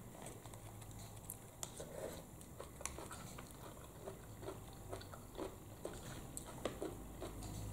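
Faint mouth sounds of someone biting into and chewing a chewy konjac-flour snack: a scattering of small, soft, irregular clicks.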